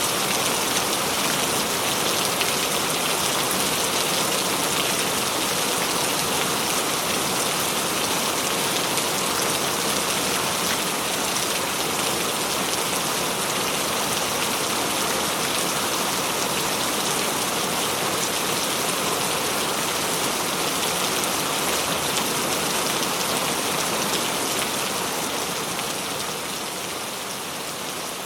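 Steady heavy rain falling and pattering on surfaces, a dense even hiss of drops, easing slightly near the end.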